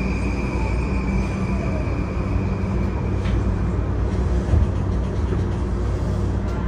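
Interior running noise of a JR East E235-0 series Yamanote Line train (Mitsubishi full-SiC VVVF drive) under way: a steady low rumble of wheels and bogies on the rails. A high whine fades out over the first couple of seconds.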